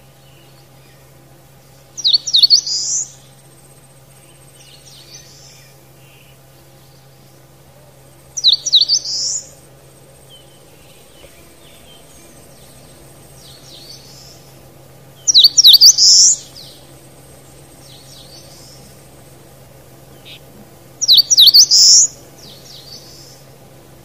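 A songbird singing loud, short, high phrases about six seconds apart, four times, with fainter bird calls between them.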